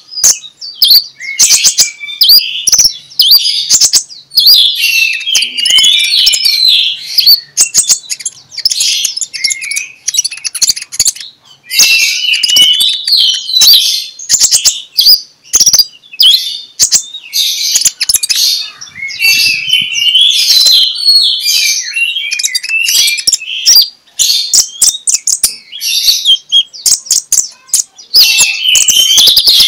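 Kolibri ninja (Van Hasselt's sunbird) singing a long, open "ngeplong" song: rapid high-pitched chirps and trills strung into phrases a few seconds long with short breaks between them. It is the kind of song played to lure and train other konin into singing.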